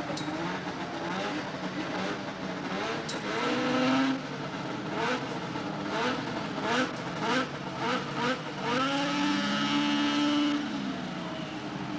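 Two-stroke racing snowmobile engine revved in a string of short rising blips, then wound up and held at high revs for about two seconds near the end before dropping away.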